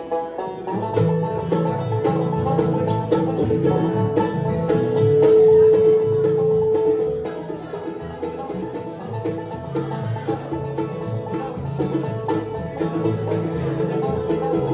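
Live bluegrass band playing the instrumental intro of a song, with no singing yet. A held note in the middle is the loudest part.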